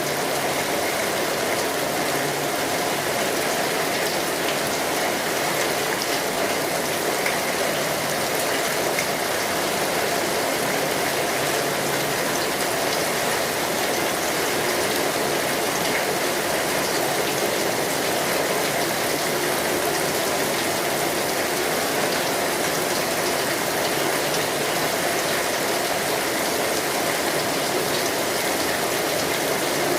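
Steady rainfall: an even hiss of drops with no change in level.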